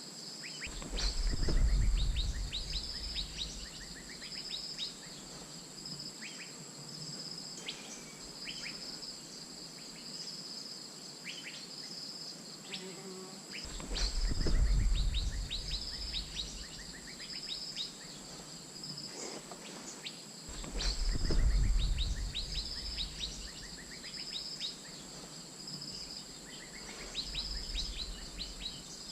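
Asian fairy-bluebird calls: short, sharp downward-sweeping notes repeated in quick runs, over a steady high insect whine and a pulsing insect buzz. Three louder low rumbles come through, about a second in, about halfway, and about two-thirds of the way through.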